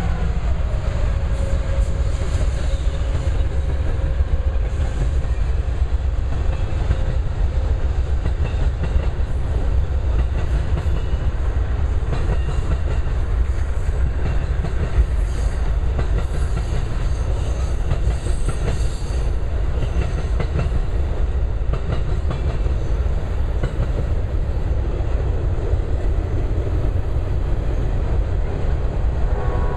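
A passenger train of Superliner cars led by an Amtrak P42DC diesel rolls past alongside a freight train, making a steady rumble of steel wheels on rail. A tone sinks slightly in pitch and fades out over the first several seconds.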